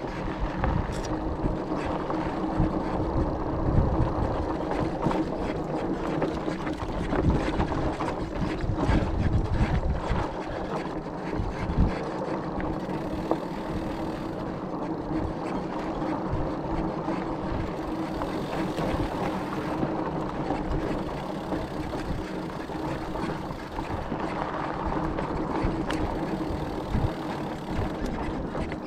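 E-bike's electric motor running with a steady hum, over the low rumble and knocks of tyres riding a rough dirt road.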